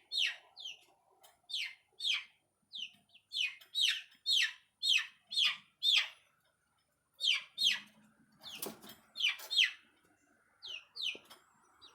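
Young chickens peeping: a run of short, high, downward-sliding peeps, two or three a second, pausing briefly a little past halfway. One brief knock comes about three-quarters of the way through.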